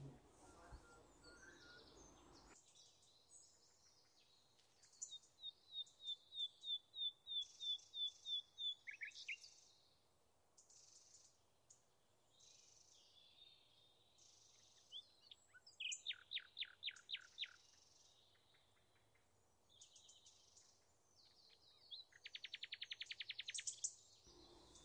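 Faint songbird song from outdoors: a run of about a dozen quick high notes, later a short trill, and a fast trill near the end.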